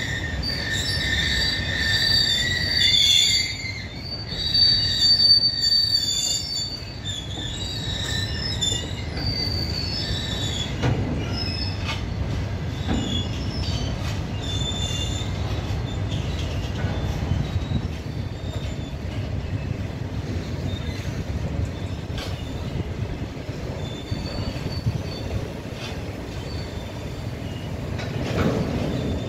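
A long freight train of covered boxcar wagons rolling past, its wheels running on the rails with a steady rumble. High-pitched wheel squeal is loudest over the first several seconds, then fainter squeals come and go, with a few knocks from the wheels on the track.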